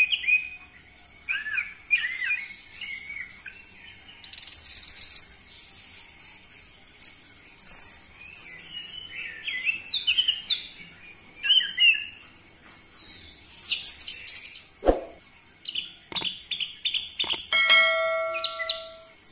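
Orange-headed thrush singing a fast, varied song of whistled and chirping phrases. There are two sharp clicks around three-quarters of the way through, and near the end a ringing, held note with overtones.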